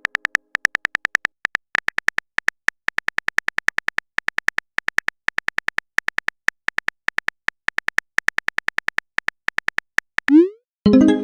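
Smartphone keyboard typing sound effect: rapid, uneven clicks as a message is typed. Near the end come a short rising swoop of a message being sent and the plucked chime of an incoming-message notification.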